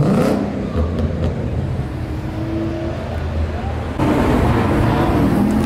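Sports car engines driving past on a city street. One engine pulls away with a brief rising note, then a louder engine comes in suddenly about four seconds in, its pitch climbing slightly as it accelerates.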